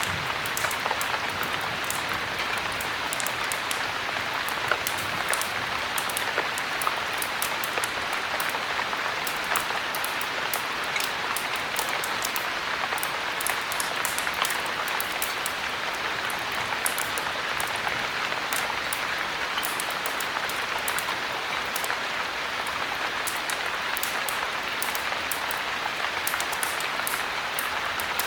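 Steady heavy rain, an even hiss with many small sharp ticks scattered through it.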